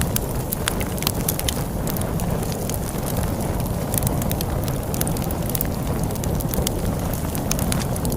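Log fire crackling, with many irregular sharp pops and snaps, over a steady low rumble of snowstorm wind.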